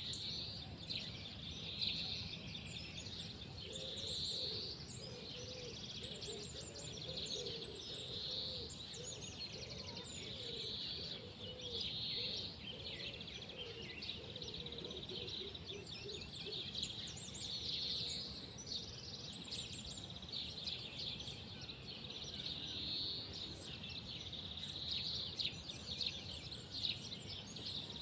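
Several wild birds chirping and singing, with short song phrases repeating every couple of seconds, over a steady low background rumble.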